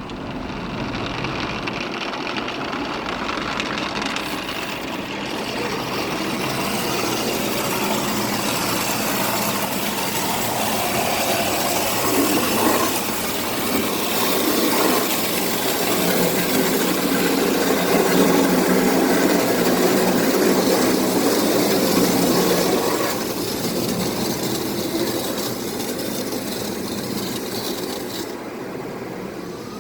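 Automatic car wash heard from inside the car: water spraying and rotating brushes scrubbing over the body, a steady rushing and scrubbing that grows louder, is loudest past the middle, then eases off near the end.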